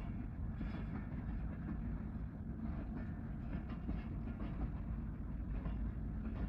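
Passenger train coaches rolling past close by: a steady low rumble of steel wheels on the rails, with scattered light clicks and rattles.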